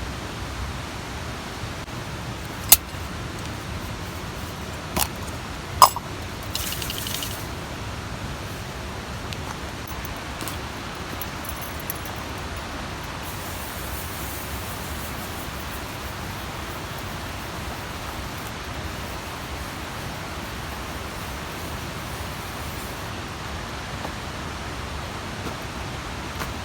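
Steady rushing of a mountain stream, with three sharp knocks in the first six seconds and a brief hiss just after them.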